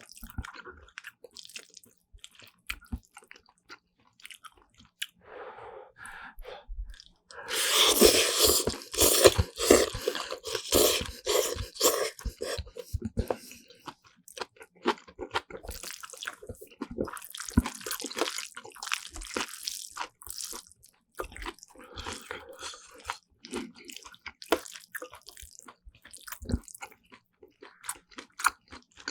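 Close-miked eating of Chapagetti black bean noodles and side dishes: wet chewing and biting with scattered mouth clicks. Two long stretches of louder, denser eating noise come about a quarter of the way in and again past the middle.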